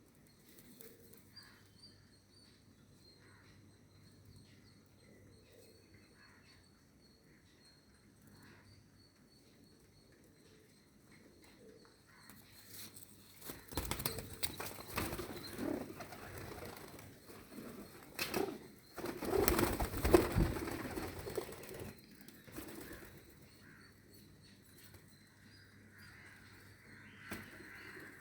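Pigeons cooing and flapping their wings, with a stretch of loud, irregular fluttering from about halfway through that dies down near the end.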